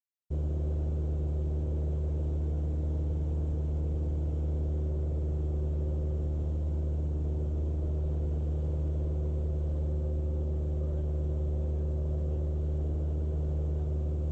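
Cessna 172's piston engine and propeller running steadily at climb power just after takeoff, a constant low drone heard through the cockpit intercom. It cuts in abruptly about a third of a second in.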